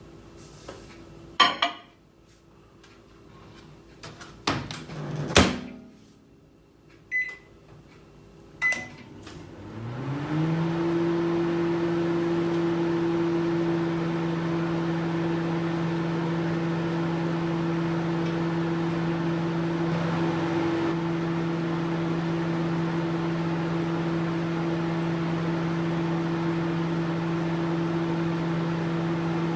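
Microwave oven being started: a few clicks and a knock, then two short keypad beeps. The oven then starts with a hum that rises in pitch as it spins up and settles into a steady hum with a fan whir.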